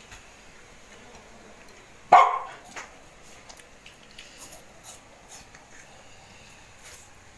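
A dog barks once, loud and sharp, about two seconds in, with a fainter second sound shortly after. Faint scattered clicks can be heard otherwise.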